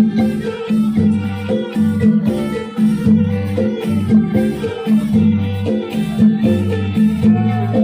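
Isan pong lang folk ensemble playing a lively dance tune: quick repeated melodic notes over a steady beat of rattles and other percussion.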